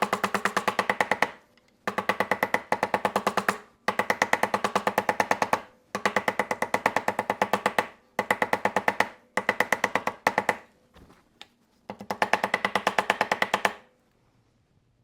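Rapid light hammer taps at about nine a second, in runs of one to two seconds with short pauses, each tap ringing off the hard work surface; the taps press two contact-cemented layers of a leather belt together along the edges. The tapping stops near the end.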